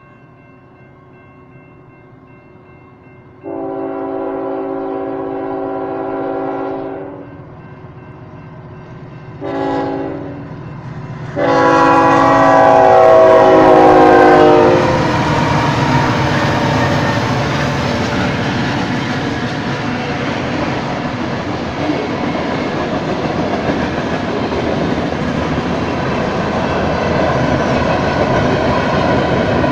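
Crossing bell ringing while a Union Pacific freight train's diesel locomotive horn sounds three blasts: long, short, then a long, loudest one as the locomotives reach the crossing. The locomotives then pass, and freight cars roll by with steady wheel-and-rail noise and some clickety-clack, with the bell still ringing under it.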